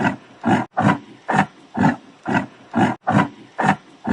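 Yak grunting: short, evenly repeated grunts, about two a second.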